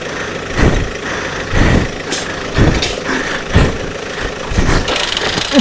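Off-road 4x4's engine running, with a regular louder surge about once a second.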